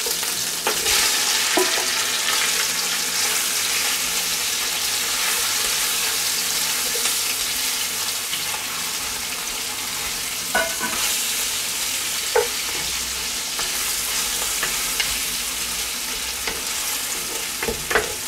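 Sliced onions sizzling in hot oil and tomato paste in a cast-iron Dutch oven, stirred with a wooden spoon: a steady frying hiss, with a few short knocks of the spoon against the pot.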